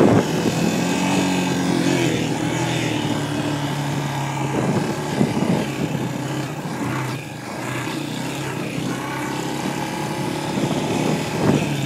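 Dirt bike engine idling steadily, with a short knock at the very start.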